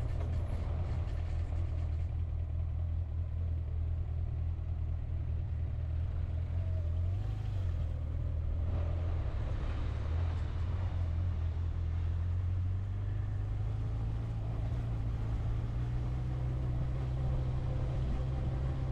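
A road vehicle being driven: a steady low engine and road drone with tyre noise. The engine note shifts in pitch partway through as the speed or gear changes.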